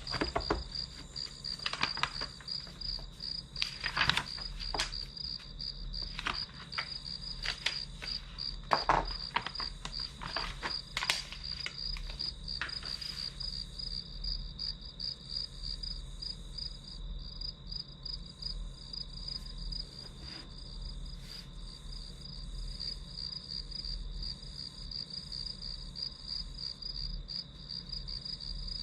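Crickets chirping in a steady, pulsing trill throughout. Brief scattered taps and scratches are heard through about the first half, then stop.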